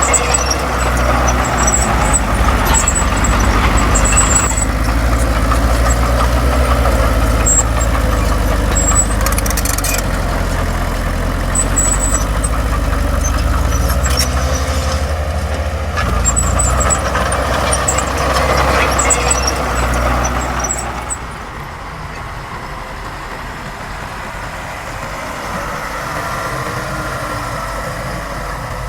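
Heavy diesel engine of an earthmoving machine running hard, with short high squeaks now and then. About 21 seconds in it drops to a quieter, steadier running sound.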